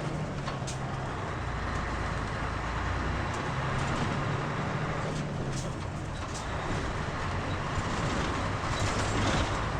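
Inside a Mitsubishi Fuso KL-MP37JK diesel city bus: the engine's low drone runs under road and cabin noise, with a few sharp clicks and rattles. The drone fades about a second in and comes back around three to five seconds, and the noise grows louder near the end.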